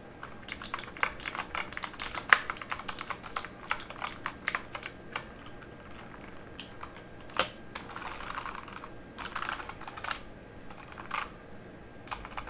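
Mechanical keyboard keys being typed on, a fast run of clicking keystrokes for about the first five seconds, then slower, scattered key clicks.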